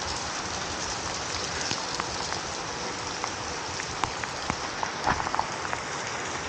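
Heavy rain falling: a steady hiss of rain with many sharp individual drop hits, and a brief cluster of louder hits about five seconds in.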